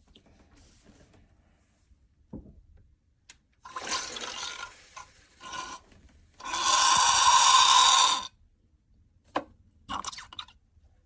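Neretva espresso machine's steam wand hissing in spurts once it has heated: a softer hiss about four seconds in, then a loud, steady hiss for about two seconds, and a few short puffs near the end.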